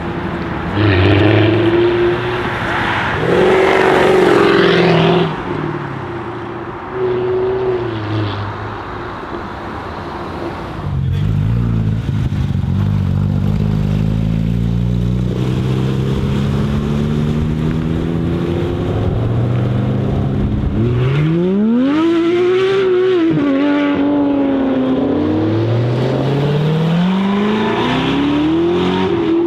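Jaguar F-Type's 5.0-litre supercharged V8 revved hard two or three times, then pulling away, its note climbing slowly and then rising sharply through the gears with a drop in pitch at a shift.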